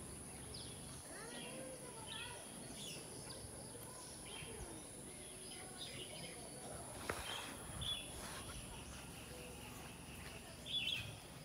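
Small birds chirping in short, scattered calls, with a louder call near the end, over a thin, steady, high-pitched whine. A single sharp tick sounds about seven seconds in.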